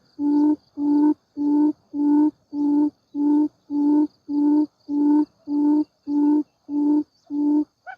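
Low hooting quail call: one steady note repeated very evenly about twice a second, stopping shortly before the end.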